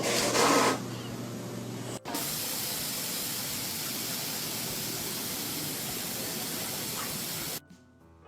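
A steady, even hiss that starts abruptly about two seconds in and cuts off suddenly near the end.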